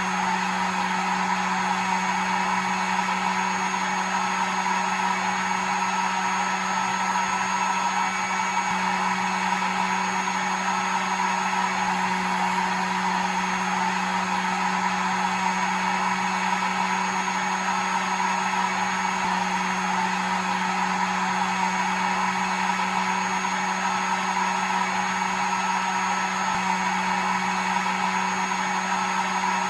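Hair dryer running steadily: an even whooshing rush of air with a constant motor hum and faint whine, played as a soothing noise to lull a baby to sleep.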